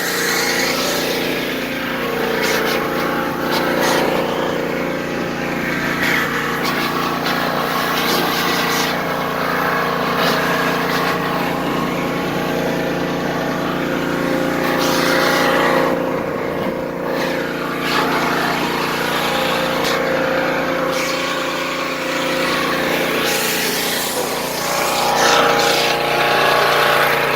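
An engine running steadily at a constant speed, with a few short clanks and knocks scattered through.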